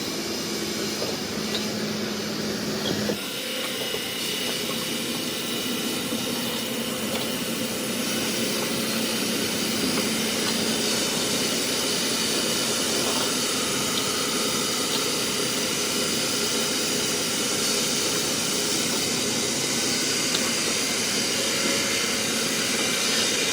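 Heavy machinery running steadily, with a constant hiss over it; the sound changes abruptly about three seconds in.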